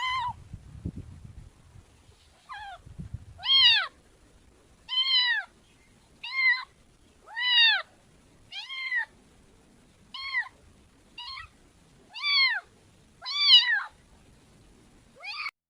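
A cat meowing over and over: about a dozen short, high meows, each rising and falling in pitch, coming roughly once a second with uneven gaps.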